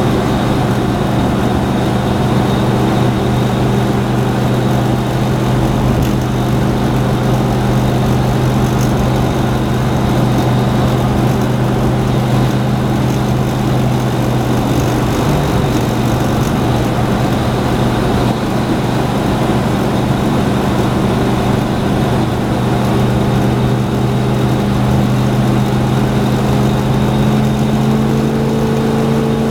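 1968 Dodge Charger's 440 big-block V8 running steadily under way, over road noise. The engine note breaks briefly about halfway through and climbs slightly in pitch near the end.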